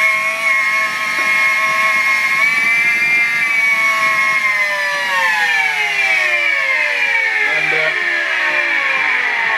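Miele Complete C3 canister vacuum cleaner's motor running with a loud, high whine, holding steady at first, then falling steadily in pitch from about halfway through as the motor slows.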